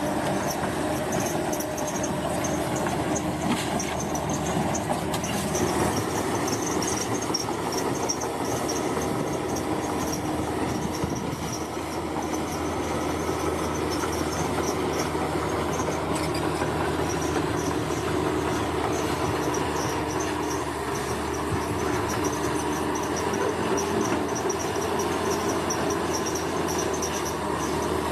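Bulldozer's diesel engine running steadily, with insects chirping in a high, rapid pulsing above it.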